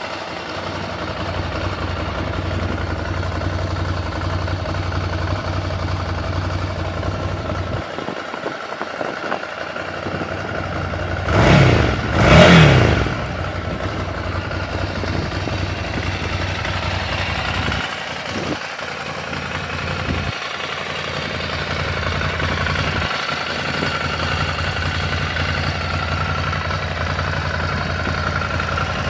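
Ducati Scrambler's air-cooled L-twin engine idling steadily, blipped twice in quick succession about halfway through, the revs rising and falling sharply each time, then settling back to idle.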